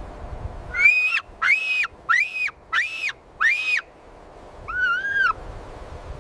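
An animal giving five short, high, whistle-like calls in quick succession, then a lower, wavering call.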